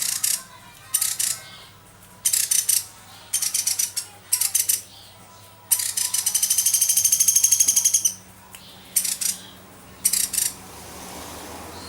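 Young pelatuk beras woodpecker giving rapid, high-pitched trilling rattle calls in short bursts, about eight of them, with one longer trill of about two seconds in the middle.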